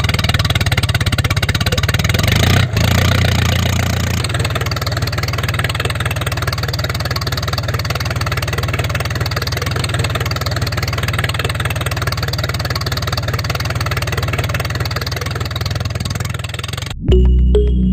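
Steady running sound of a DIY mini tractor's motor, with a brief dropout about three seconds in. It cuts off suddenly near the end, where electronic music begins.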